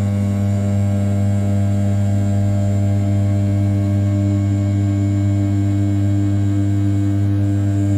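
Brushless CNC spindle at 6000 rpm milling 7075 aluminium in an outer-profile roughing pass: a steady low hum with several held overtones above it.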